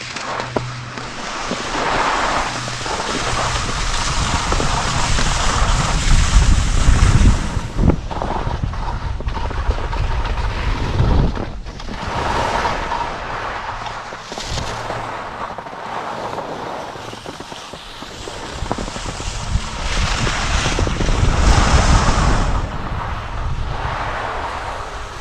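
Wind buffeting the microphone and skis hissing over the snow while skiing downhill, a steady rushing noise that swells and fades, loudest twice.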